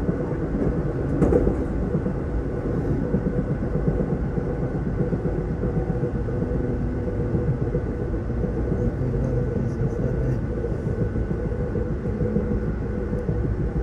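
Steady rumble of a moving passenger train, heard from on board as it runs alongside a passing freight train, with a faint steady whine and one brief click about a second in.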